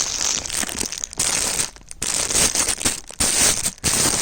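Packaging crinkling and rustling in a few separate bursts with short pauses as a single woolen ear band is unwrapped by hand.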